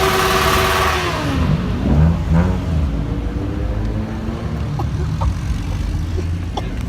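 Car engine held at high revs, then dropping off about a second in, with a short rev blip around two seconds, then running steadily at lower revs.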